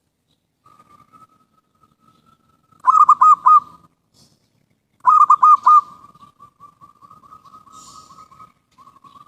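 Zebra dove (perkutut) cooing: two loud phrases of about four quick coos each, some two seconds apart, with softer rolling trills of coos before and after them.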